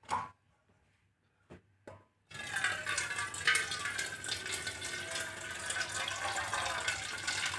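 A couple of short knocks, then water pouring steadily into a container for about five seconds, stopping abruptly at the end.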